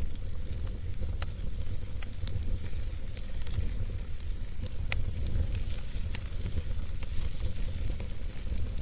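Wood fire burning in a fireplace: a steady low rumble and hiss of the flames, with scattered sharp crackles and pops from the burning wood.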